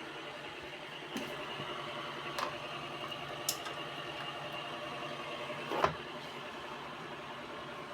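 Wall-mounted electric fans running, their motors giving a steady hum with a few steady tones over it. A few sharp clicks break in, the loudest about six seconds in.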